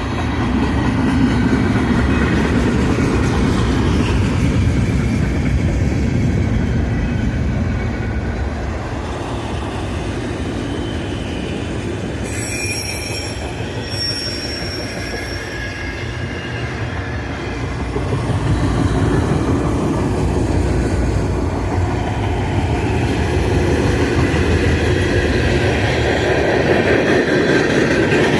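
Union Pacific train's cars rolling past on the rails, a steady loud rumble of wheels on track, with a brief high wheel squeal about twelve seconds in.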